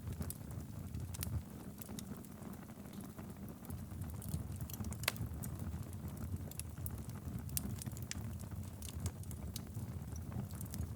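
Wood fire burning steadily in a fireplace, a low rumble of flame with irregular sharp crackles and pops; one louder pop about five seconds in.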